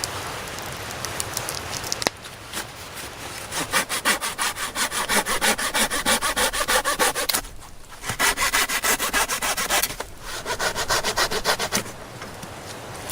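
Hand saw cutting through wood in quick back-and-forth strokes, about four a second. It comes in three bouts with two short pauses and eases off near the end.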